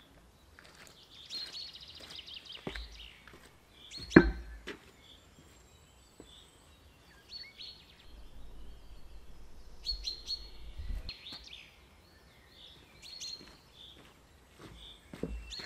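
Small songbirds chirping, with a short rapid trill early on and scattered single calls. One sharp knock sounds about four seconds in.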